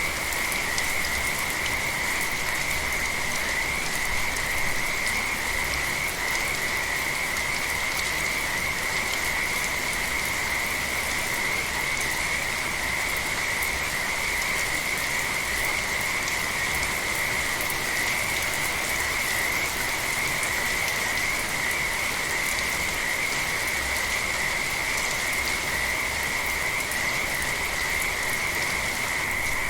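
Steady rain with a dense chorus of frogs calling without a break.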